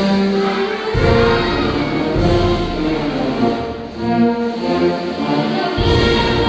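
Choir singing held chords over orchestral accompaniment.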